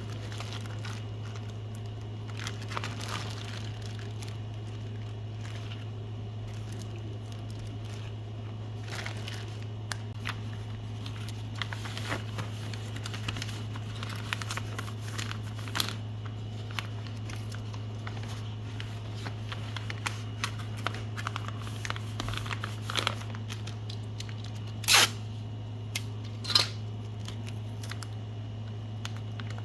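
Small desk-work handling sounds: scattered light scratches, rustles and clicks of paper and art materials over a steady low hum, with two louder short rustles near the end.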